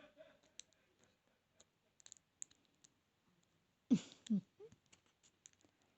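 Lock pick and tension tool working the pins of a 32mm padlock: faint, scattered small metal clicks. About four seconds in, a brief, louder vocal sound such as a sigh.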